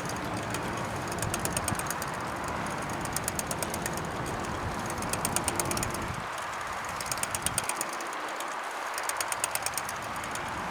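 Bicycle rolling along with steady tyre and wind noise. Every second or two comes a short burst of rapid ticking from the rear freewheel as the rider coasts.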